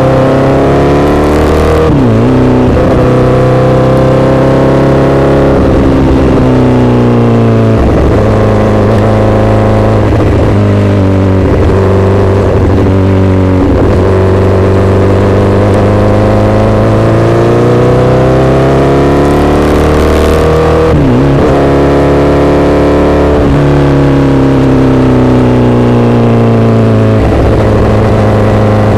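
Honda CBR1000RR's inline-four running loud through an SC-Project aftermarket exhaust, under way. The pitch climbs and then dips sharply several times as the bike accelerates and shifts through the gears.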